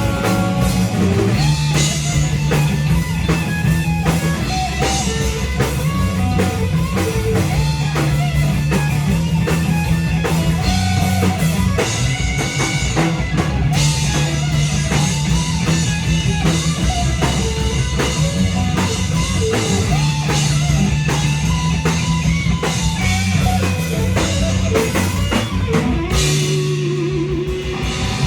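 A rock band playing an instrumental passage with electric guitar, bass and drum kit, and no vocals. Near the end the bass and drums drop out for about two seconds, then the full band comes back in.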